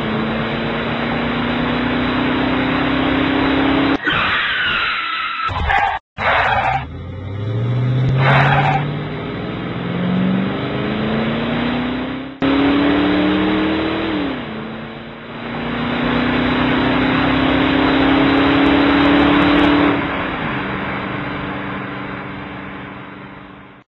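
Car sound effects: an engine revving, its pitch climbing in steps as if through gear changes and dropping off again. Short noisy bursts come a few seconds in, and the sound breaks off abruptly at several cuts before fading out at the end.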